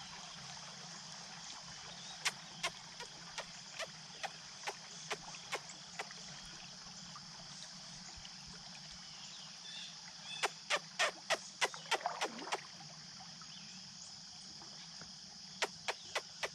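Creek ambience from a kayak: a steady high insect drone, broken by three runs of sharp ticks at about two or three a second.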